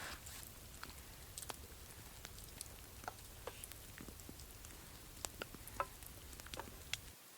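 Campfire crackling, with scattered sharp pops and snaps at irregular intervals over a low steady rumble that cuts off just before the end.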